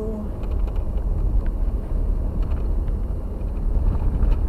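Vehicle driving on a rough road: a steady low rumble of engine and tyres, with faint scattered rattles.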